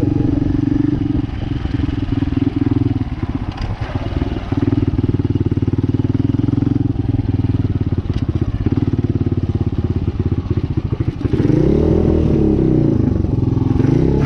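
Dirt bike engine running steadily, then revved up and back down about eleven seconds in, with another rise in revs at the very end.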